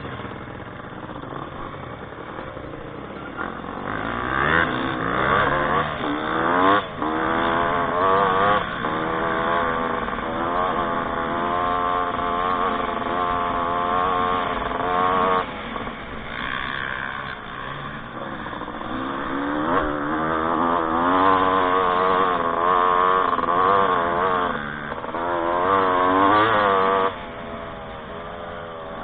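Off-road motorcycle engine revving up and down as it rides, its pitch climbing and falling again and again, with a sharp drop in throttle near the end.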